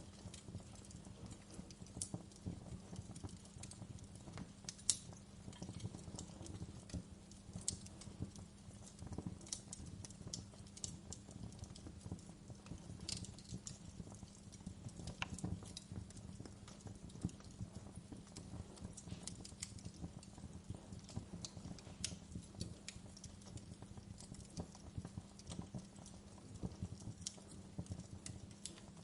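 Wood fire crackling, with frequent irregular sharp pops and snaps over a low, steady rumble of burning; one snap about five seconds in stands out as the loudest.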